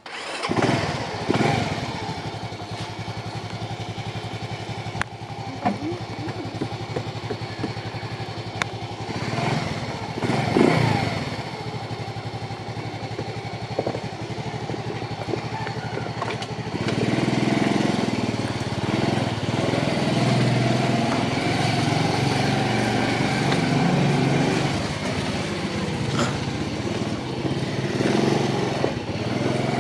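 Rusi DL125 motorcycle's 125 cc single-cylinder engine running steadily, rising in pitch a couple of times around ten seconds in and growing louder from about seventeen seconds in.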